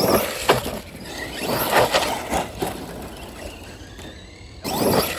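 Brushless-motor RC stunt truck driven in short bursts of throttle: the motor's whine rises and falls with each surge, along with gear and tyre noise and a few knocks. It goes quieter for a moment past the middle and surges again near the end.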